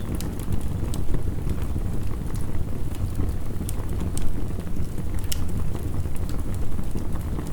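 Steady heavy rain with the sharp pops and crackles of a wood fire scattered irregularly through it.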